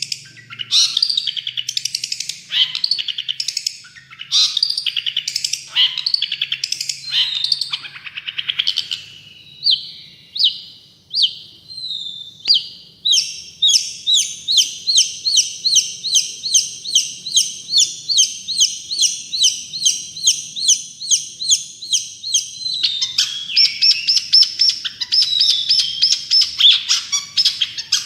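Long-tailed shrike singing a loud, varied song. It opens with dense scratchy phrases. After a few slurred notes it gives a fast, even run of repeated falling notes, then breaks into busy chattering near the end.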